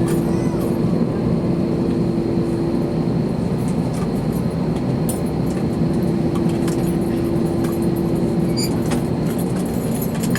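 Steady cabin noise inside an Airbus A321 on the ground before takeoff: an even rush of engine and air-conditioning noise under a steady hum, which drops out for a couple of seconds about three seconds in and then returns. Faint clicks and rattles come and go.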